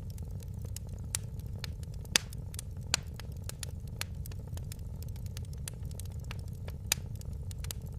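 Fire in a fireplace crackling: a steady low rumble of flame under frequent small crackles, with a few sharper pops, the loudest just after two seconds in, and others near three and seven seconds.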